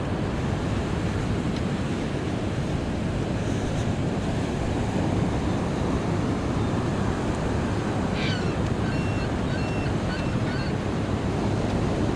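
Ocean surf washing onto a beach in a steady wash, with wind rumbling on the microphone. A few faint, short, high-pitched chirps come about two-thirds of the way through.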